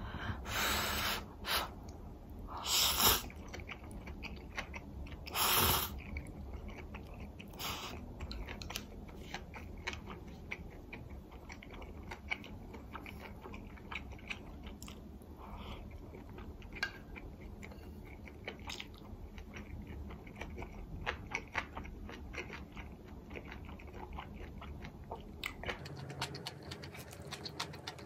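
A person chewing food close to the microphone. A few louder crunchy bites come in the first six seconds, then many small mouth clicks as the chewing goes on.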